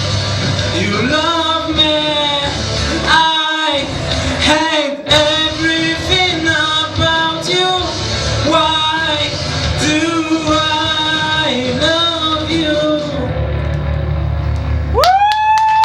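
Live rock band with a male lead singer, the vocal line rising and falling over steady guitar, bass and drums, closing with one long held high note near the end.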